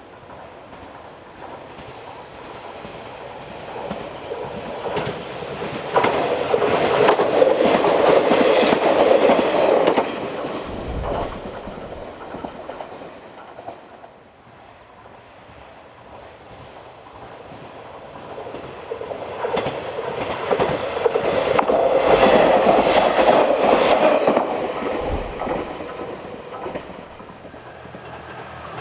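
Diesel railcar passing by with its wheels clattering over the rail joints, loud twice: once for a few seconds near a quarter of the way in and again past the middle.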